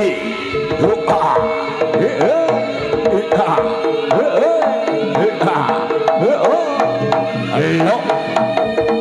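Javanese jaranan ensemble music: kendang hand-drum strokes whose pitch swoops up and down, played over steady sustained tones from the ensemble.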